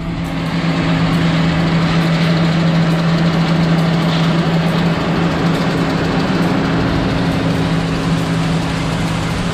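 Toyota 4Runner driving at a steady speed: a constant low engine drone over a steady rush of road and wind noise.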